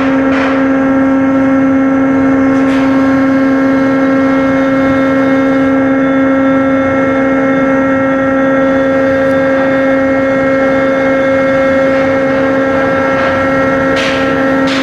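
Cargo ship's diesel machinery running steadily during a sea trial: a loud, even drone with a strong steady hum, with a few brief clicks near the start and end.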